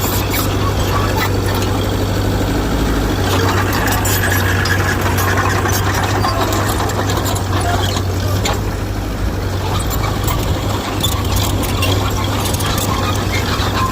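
Mitsubishi BD2G bulldozer's diesel engine running steadily, with scattered sharp metallic clicks over its drone.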